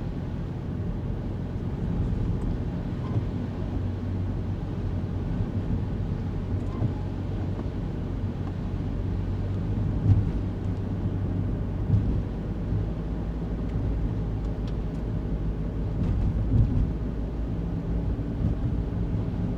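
A kei car's small engine and tyre noise heard from inside the cabin while driving, a steady low drone. A few brief bumps come through, the loudest about halfway in.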